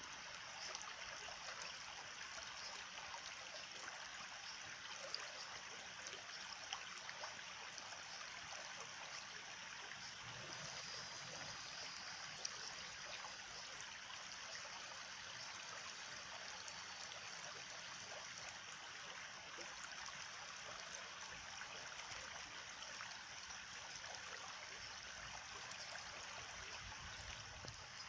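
Running water of a small stream, a steady trickle with a few faint ticks.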